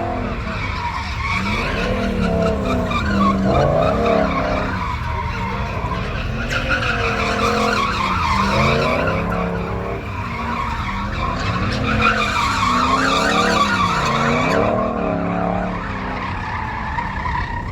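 A vehicle's engine revving up and down over and over, roughly every second or two, with tires squealing against the pavement: a burnout or donuts.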